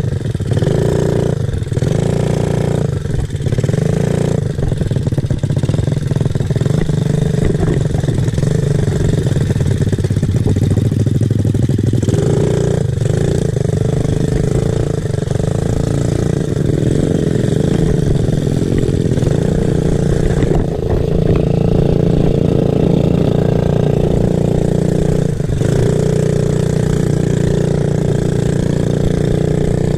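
Small off-road motorcycle engine running loud under throttle, with the revs dropping briefly several times, a few in the first five seconds and again around twelve and twenty-five seconds in.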